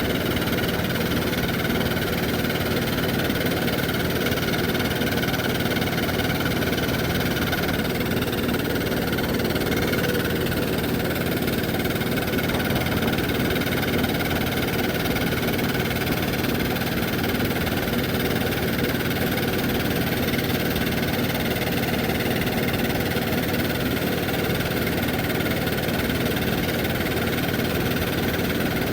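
1969 Zetor tractor's diesel engine running steadily, with an even, unchanging note.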